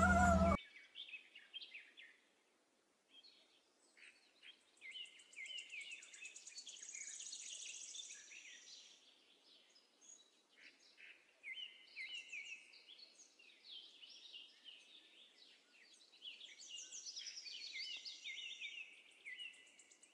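Faint bird song: quick high chirps and buzzy trills in short clusters with gaps between.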